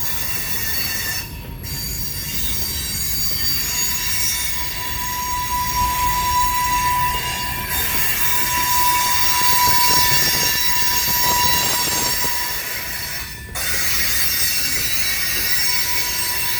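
A train rolling past, with a low rumble of wheels on rail and a cluster of steady high-pitched squeals from the wheels. The sound dips briefly near the end.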